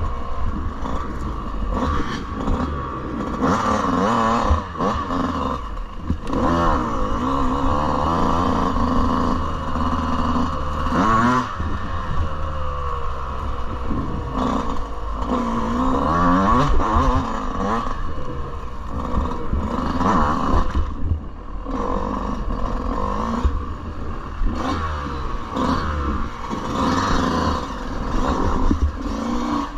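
Yamaha 125cc dirt bike engine revving up and down as it is ridden, the pitch rising and falling again and again, over a steady low rumble, with clattering and scraping as the bike moves.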